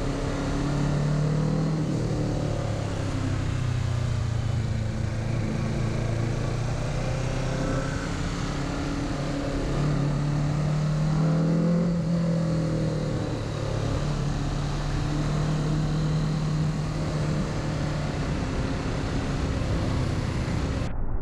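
Kawasaki Z650's 649 cc parallel-twin engine running under way, its pitch rising and falling with the throttle, climbing about ten seconds in and then settling back.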